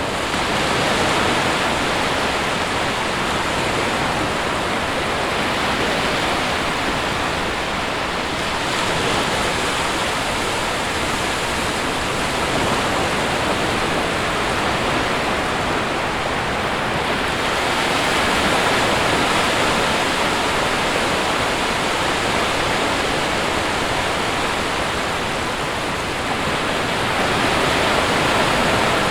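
Sea waves washing onto a beach: a continuous rush of surf that swells and eases every several seconds.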